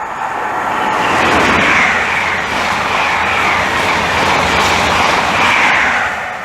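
An InterCity 125 High Speed Train, with Class 43 diesel power cars, passing through at speed. The loud rush of engine and wheel noise builds over the first second, holds, then eases near the end.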